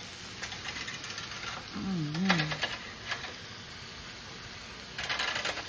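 Food sizzling in the small metal pans of an electric raclette-style grill, with metal clinks and scrapes as a pan is handled and slid under the grill plate about two seconds in and again near the end. A short hummed "mm" from a person about two seconds in.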